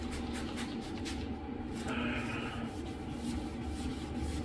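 Fine-grit sandpaper rubbed by hand across a plastic headlight lens in short back-and-forth strokes, a few scratchy strokes a second, sanding off the oxidized haze.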